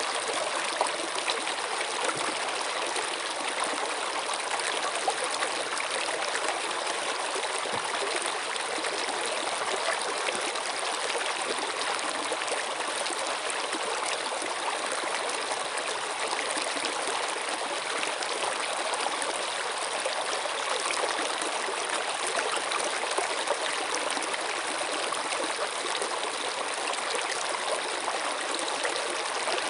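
Running water flowing steadily, an even rushing and trickling with no breaks or changes.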